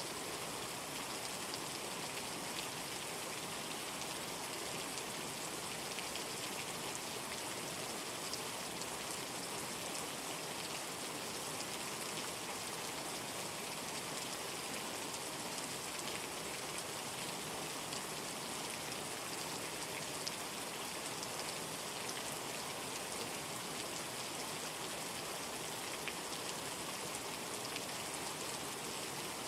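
Steady rain from a rainstorm, an even hiss of falling drops with fine scattered ticks of individual drops. No thunder rolls in.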